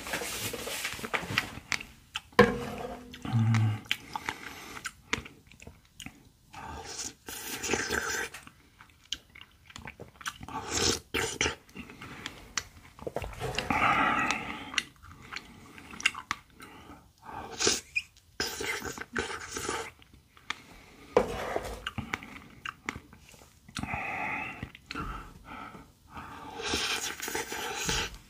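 Close-miked chewing of mouthfuls of strawberry yogurt shaved ice (bingsu), in irregular wet bursts with crunches of icy flakes and fresh strawberry.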